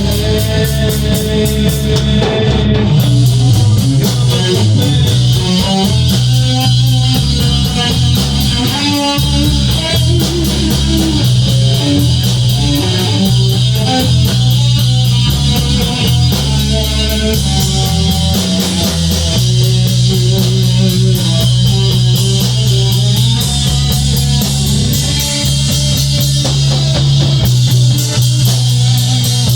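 Rock band playing: guitar, bass guitar and drum kit, at a steady, loud level.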